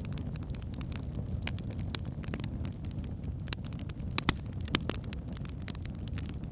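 Wood fire burning in a fireplace: a steady low rumble of flames with irregular sharp crackles and pops from the logs, one louder pop a little after four seconds in.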